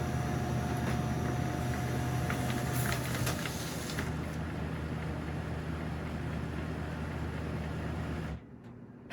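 Laser printer running through a double-sided print job: a steady mechanical hum with a thin whine that fades out about three seconds in and a few light clicks, then it stops abruptly near the end as the printer pauses mid-job to receive data.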